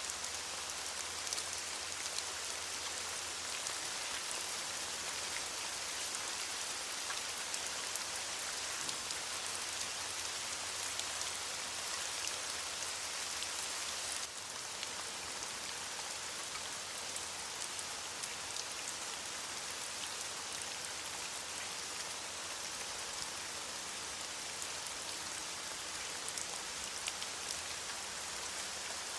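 Steady rain falling on leaves: an even hiss with scattered individual drops ticking. The level dips slightly about halfway through.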